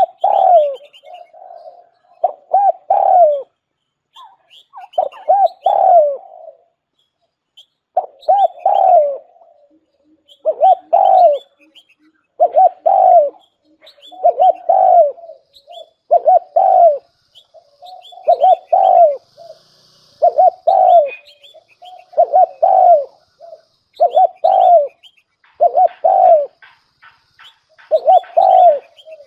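Spotted dove cooing in repeated low phrases, one about every two seconds. This is the call of a decoy bird used to lure wild doves. Small birds chirp faintly behind it.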